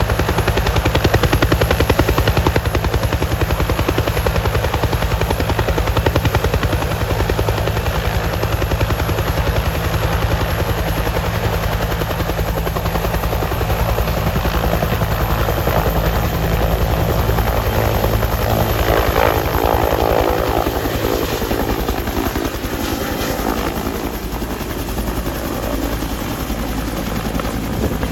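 Helicopter's rotor and turbine engine running, with a steady rapid blade chop. A higher whine swells about two-thirds of the way through, and the sound then eases slightly.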